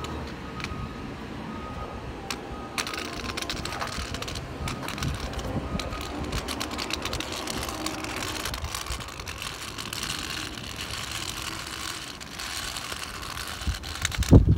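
Rain pattering close to the microphone as a dense, rapid, irregular ticking, over a garbage truck's engine running low underneath. Short high beeps sound now and then in the first few seconds.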